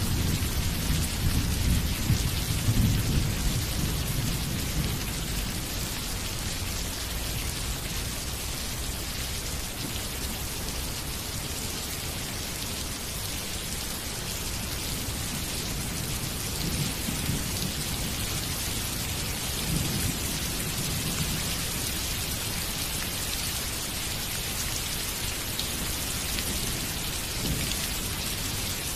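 Steady rain falling, with thunder rumbling loudest in the first few seconds and dying away, then a few fainter rumbles later on.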